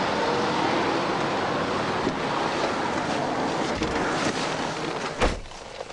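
Steady rush of roadside traffic and wind buffeting the microphone. About five seconds in comes a single sharp thump, and the noise drops noticeably after it.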